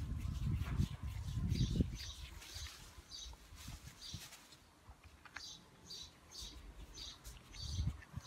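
A small bird chirping over and over, short high chirps about twice a second. A low rumble runs under the chirps for the first two seconds.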